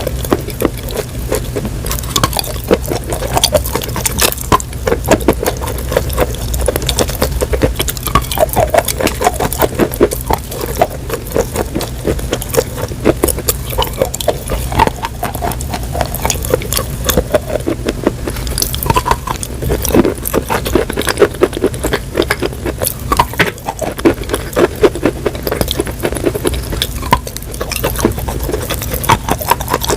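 Close-miked ASMR crunching of something brittle: a dense, irregular run of crisp cracks and crackles, over a steady low hum.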